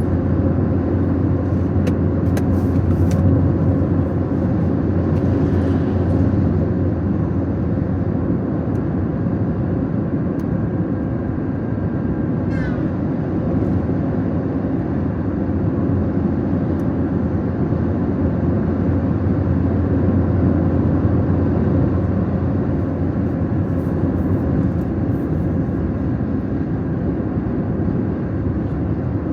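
Car driving: a steady engine and road rumble.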